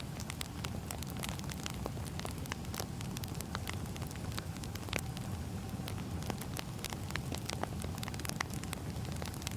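Firewood burning, crackling steadily: many irregular sharp pops and snaps over a low, even rush of the flames.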